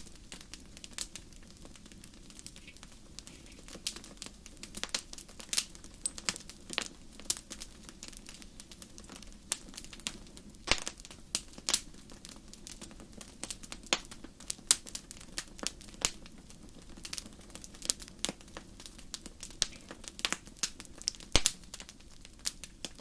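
Fireplace fire crackling: irregular sharp pops and snaps, several a second at times, over a low steady background of the burning fire.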